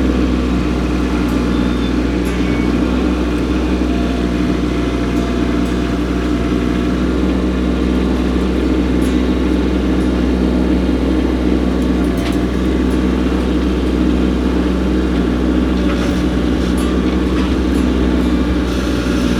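Kubota compact tractor's three-cylinder diesel engine running steadily at a constant speed, with a few faint clicks or knocks near the end.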